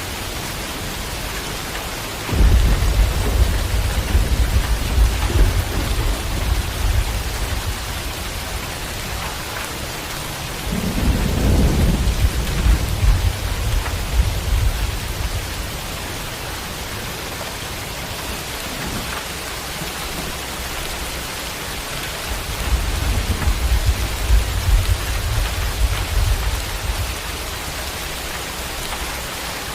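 Steady rain falling, with three rolls of thunder. The first deep rumble starts suddenly about two seconds in and lasts several seconds, a second with a sharper crack comes around eleven seconds, and a third rumbles in later on.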